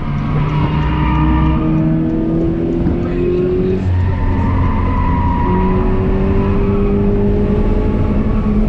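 2017 Toyota 86's 2.0-litre flat-four engine pulling under acceleration, heard from inside the cabin over tyre and road noise. Its pitch climbs slowly, drops away about four seconds in, then climbs again.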